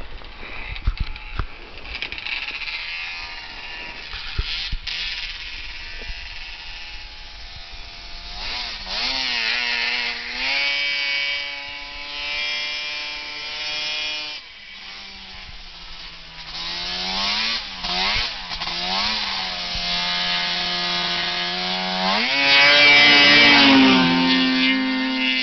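Big-bore 800 two-stroke twin of an Arctic Cat M8 snowmobile running under throttle, its pitch climbing and holding, dropping back about halfway, wavering, then climbing again to its loudest near the end. A test run after break-in, with the fuelling being tuned to cure a low-end bog.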